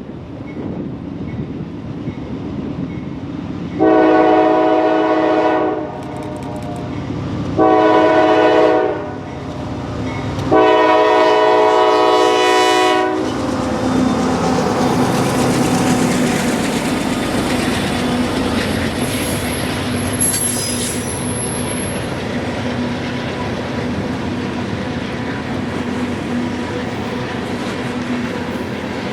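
Diesel freight locomotive's multi-chime air horn sounding three blasts, long, short and long, then the freight train rolling past with rail clatter and a brief high wheel squeal.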